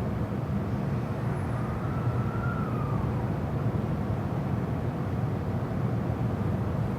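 Inside an E259 series Narita Express electric train in motion: a steady low rumble of wheels on rail and running gear. A faint whine rises and falls briefly about two seconds in.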